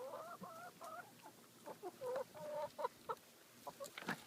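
Hens clucking close by while they eat scratch grain: a run of wavering calls at first, then short separate clucks. A couple of sharp clicks come near the end.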